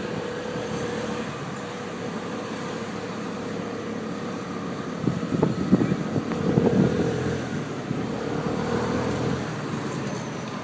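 Steady motor vehicle noise with a faint steady hum, growing louder and rougher for a couple of seconds about halfway through.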